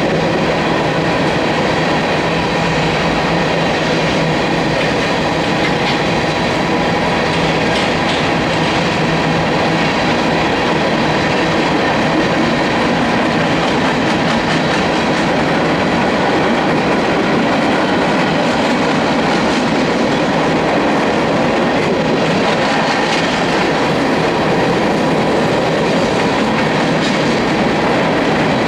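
Freight train cars rolling past at steady speed: a continuous wheel-on-rail rumble with clickety-clack over the rail joints.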